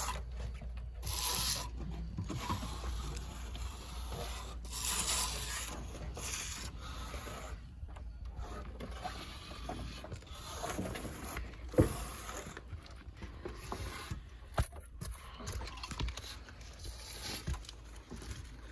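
Trowel scraping and smoothing synthetic basecoat over fiberglass mesh in irregular strokes, with a sharp knock about two-thirds of the way through.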